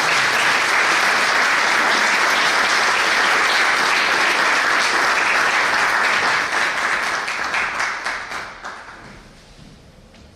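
Audience applauding, steady for about eight seconds and then dying away.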